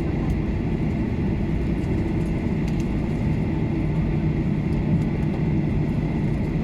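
Steady low rumble of an airliner's engines and airframe heard inside the passenger cabin while the aircraft rolls on the ground after landing, with a faint steady high tone over it.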